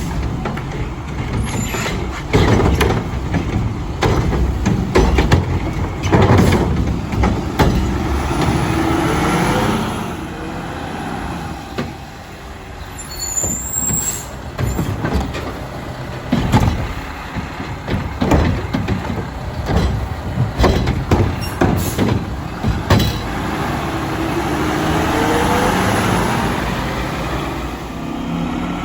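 Mack LR front-loader garbage truck with a Curotto Can arm working a route: its diesel engine runs and revs up twice under load, over repeated clanks and bangs of the arm and carts being handled and dumped.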